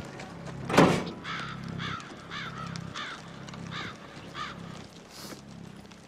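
A loud sudden hit about a second in, then a bird cawing about six times in quick succession, each call rising and falling in pitch, over a low steady hum.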